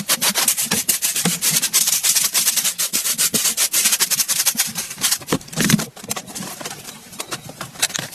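Fast, even scraping strokes, about seven a second, as food is worked by hand. About five seconds in they give way to a few heavier knocks, then softer, irregular scraping.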